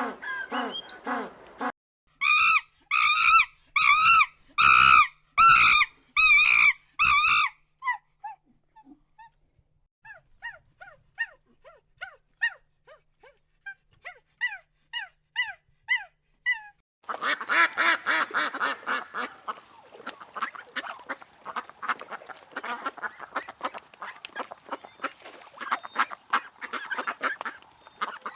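Geese honking: about eight loud honks in a row, then softer, quicker calls, and from about halfway on a dense, overlapping clamour of many birds calling together, as from a flock.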